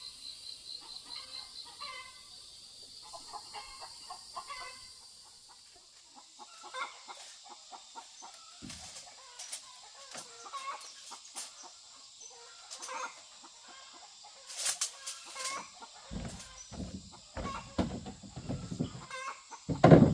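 Chickens clucking, with short calls scattered throughout. In the last few seconds come a run of dull knocks and thumps, the loudest just before the end.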